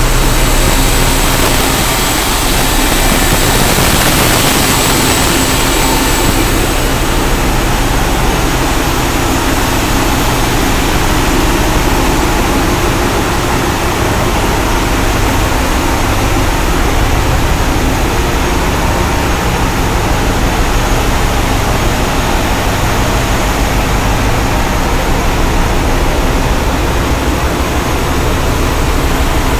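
Passenger ship's engine-room machinery running: a loud, steady din of heavy engines with a deep hum underneath. A strong high hiss in the first few seconds eases off about six seconds in.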